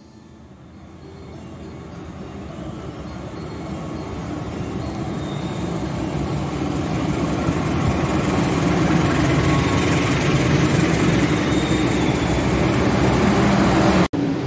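Passenger train arriving behind a diesel locomotive, rolling in alongside the platform. The locomotive's engine hum and the rumble of the wheels grow steadily louder over about twelve seconds as it draws close.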